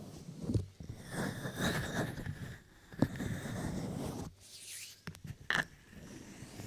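Close rubbing and scratching against a binaural microphone, in stretches, with a sharp tap about three seconds in and another brief scrape or tap near the end.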